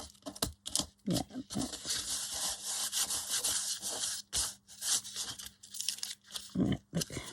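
Sandpaper rubbed back and forth over a paper journal page in repeated short strokes, sanding off loose glued papers.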